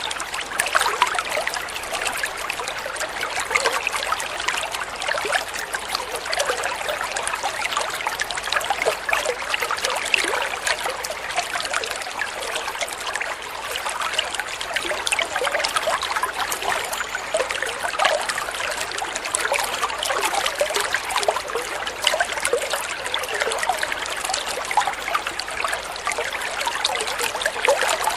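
Water flowing and trickling steadily, with a dense, unbroken patter of small splashes.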